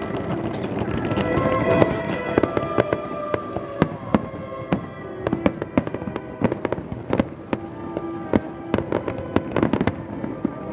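Aerial fireworks bursting: many sharp bangs and cracks in quick, uneven succession, coming thicker in the second half, with music playing alongside.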